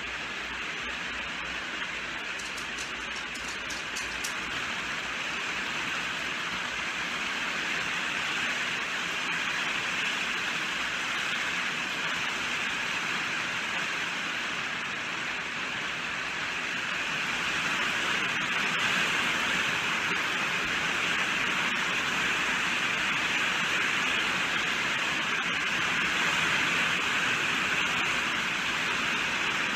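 Steady rain falling, an even hiss with no separate drops standing out, growing slightly louder about a third of the way in and again past halfway.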